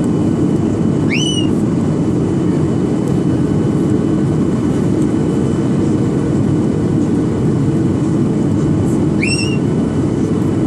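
Steady roar of a Boeing 737-800's engines and airflow, heard from inside the cabin. Two short rising chirps sound about a second in and again near the end.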